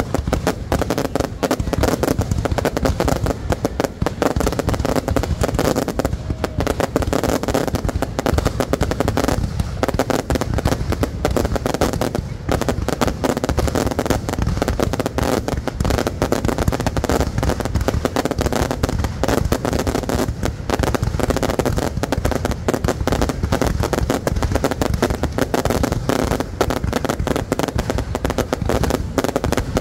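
Fireworks display going off in a dense, continuous barrage of rapid bangs and crackles with no pause.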